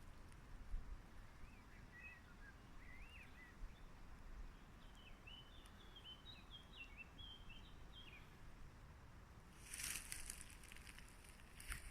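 Faint songbird singing in quiet outdoor ambience: a few scattered chirps, then a longer warbling phrase. Near the end there are two brief bursts of rustling noise.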